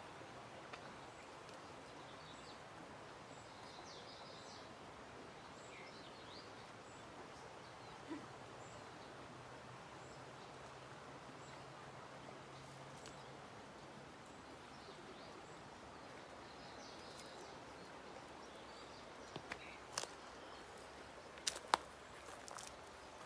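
Faint outdoor ambience with a steady background hiss and a few short, distant bird chirps; several sharp clicks come near the end.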